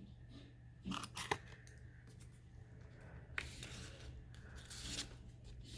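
A small hand-held paper hole punch clicking as it punches through paper: a few sharp snaps about a second in, then another snap followed by paper rustling and handling.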